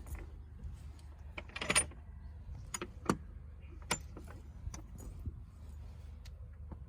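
Scattered light clicks and knocks, with a short rustle about two seconds in, over a low steady hum.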